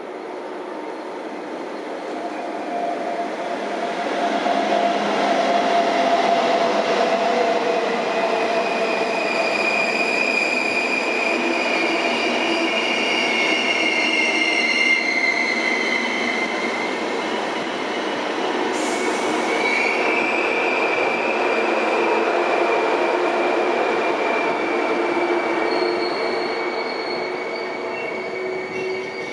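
Intercity train running into a station platform, its locomotive and passenger coaches rolling past and slowing, with high wavering squeals from the braking wheels.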